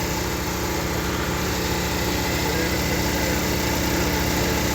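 An engine idling steadily, with an even low rumble and a faint steady whine above it.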